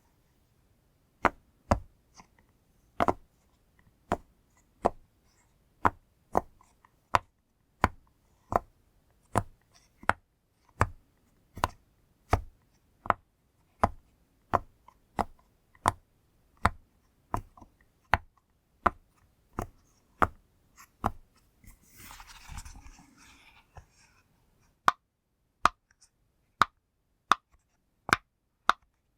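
Bubbles of a push-pop fidget toy popped one at a time, sharp pops at about two a second, with a short rustle of handling near the end before the popping resumes.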